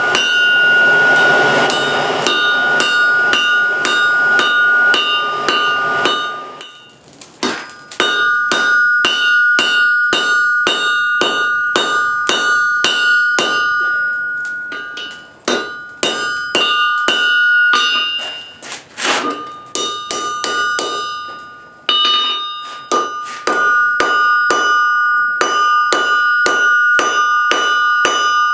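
Hand hammer forging steel on an anvil: quick repeated blows, about three a second, each leaving the anvil ringing at a steady pitch, with a few short pauses between runs of strikes.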